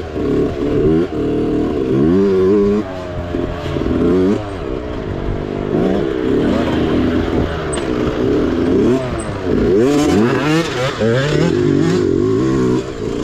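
Mini bike engine revving up and down again and again as the throttle is opened and closed over rough off-road ground, with some clatter.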